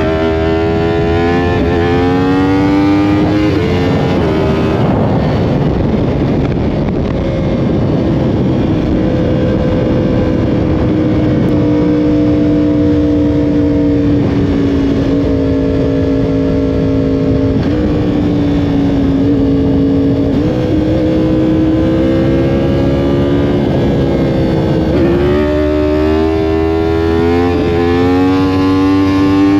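Yamaha R1 sportbike's inline-four engine at high revs under hard acceleration: the pitch climbs and drops back sharply at each upshift in the first few seconds, holds fairly steady at high speed through the middle, then climbs through the gears again near the end, with a steady rush of wind noise underneath.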